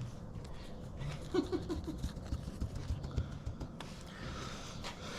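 A dog snuffling, four quick puffs about a second and a half in, among light clicks and knocks.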